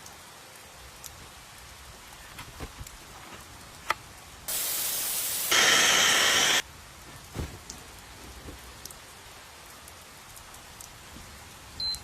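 Rain falling on a tent, a soft steady patter with scattered single drop ticks. About four seconds in, a much louder rushing noise starts abruptly, grows louder after a second, and cuts off suddenly about two seconds later.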